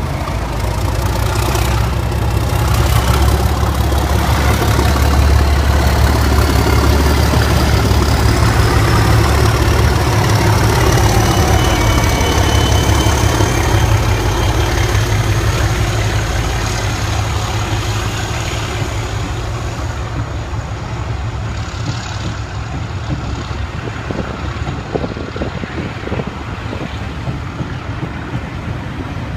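Diesel locomotive engine working hard, a deep heavy rumble with a whine that rises in pitch over the first half; the rumble is loudest in the first half and eases off later.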